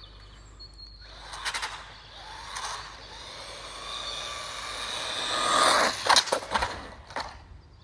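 Small electric radio-controlled car driving past, its tyre and motor noise building to its loudest about five and a half seconds in, followed by a quick run of knocks and rattles.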